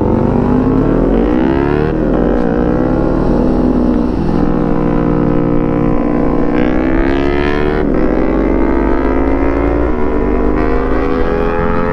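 Small parallel-twin sport motorcycle with an aftermarket exhaust, accelerating hard at high revs. The engine pitch climbs through each gear and drops at each of about four upshifts, with wind rush underneath.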